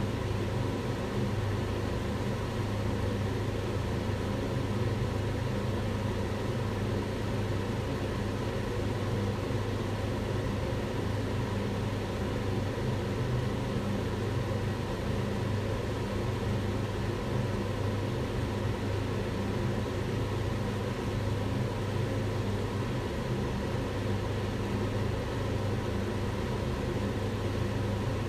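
Kitchen range hood fan running steadily: an even rush of air with a low hum underneath.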